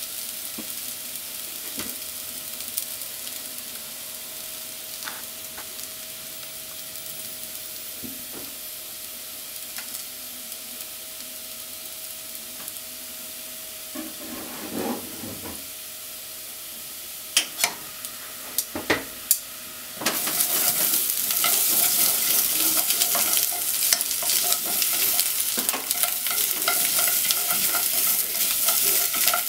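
Potato chunks frying in oil in a nonstick pot, a soft steady sizzle. Several sharp knocks come past the middle. Then chopsticks stir the potatoes with mentaiko, and the sizzle turns much louder with the clatter of stirring for the last third.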